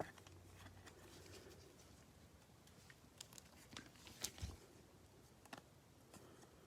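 Quiet handling of trading cards: faint rustling with a few soft clicks and taps of card and plastic, the loudest a little past four seconds in.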